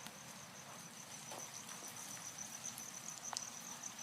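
Faint crickets chirping in a steady, rapidly pulsing high trill, with one sharp click a little over three seconds in.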